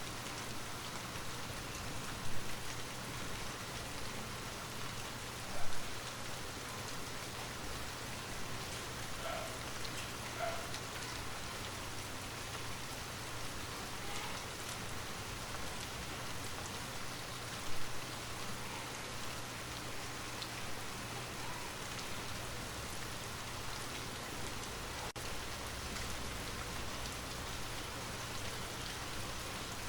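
Steady rain falling, an even hiss of drops on a surface, with three brief louder taps about 2, 6 and 18 seconds in.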